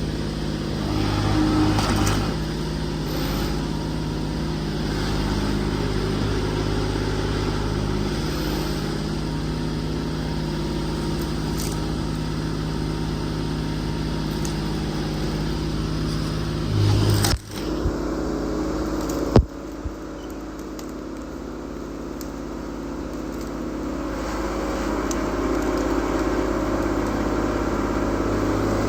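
Excavator diesel engine idling steadily while it warms up, with some rustling and scraping of branches being handled. About 17 seconds in the sound breaks off sharply and the engine carries on with a different tone.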